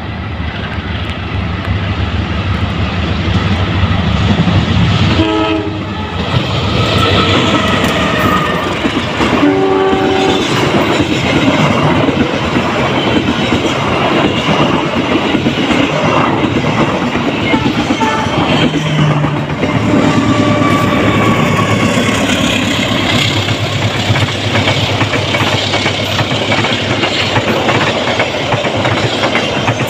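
A diesel locomotive approaching with its engine rumbling sounds its horn twice, about five and ten seconds in. Then a long train of passenger coaches rolls past close by, wheels clattering steadily over rail joints and points.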